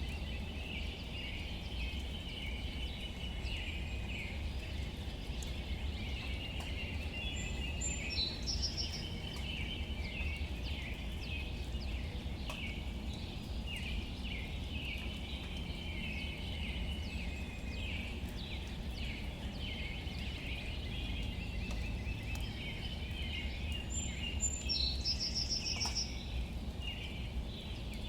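Outdoor ambience of light rain pattering on leaves, under a steady high chirring chorus. A bird gives a short, fast run of repeated high notes twice, about a third of the way in and near the end.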